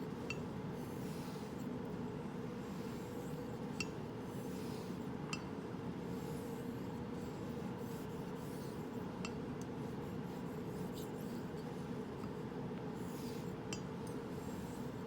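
Straight razor being honed: faint swishing strokes of the blade, with a light metallic clink every few seconds as it turns over.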